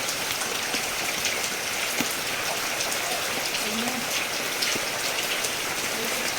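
Steady rain falling on surfaces, a dense even patter of drops with individual drops ticking through.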